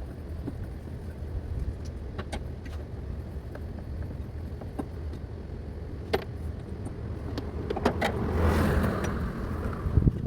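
Scattered sharp clicks and knocks of hand tools and plastic parts as an air cleaner housing's mounting bolts are worked loose, over a steady low hum. A brief rushing swell comes near the end.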